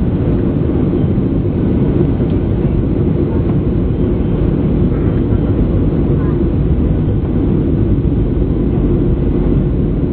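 Steady, loud rumble of a Boeing 737-800 in flight, heard from inside the passenger cabin: engine and airflow noise.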